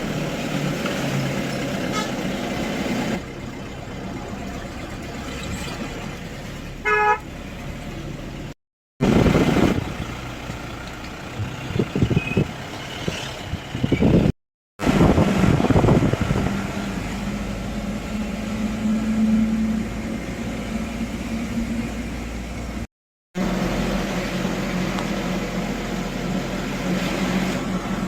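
Steady vehicle and road noise, with a short horn toot about seven seconds in. The sound cuts out briefly three times.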